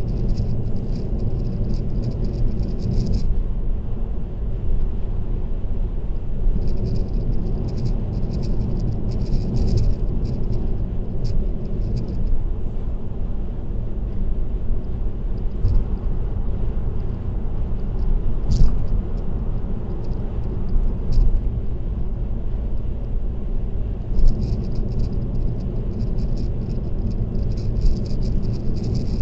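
A car cruising on an expressway, heard from inside: steady tyre and road rumble. At times it is joined by bouts of light, high-pitched rattling, with one sharp click about two-thirds of the way through.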